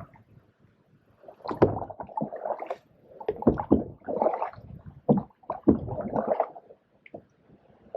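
Canoe paddle strokes in shallow pond water: three bursts of splashing and gurgling, mixed with a few sharp knocks.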